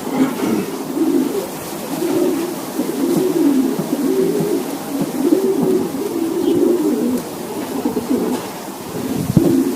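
Racing pigeons cooing, several birds at once in a repeated low warbling run, with a couple of knocks near the end.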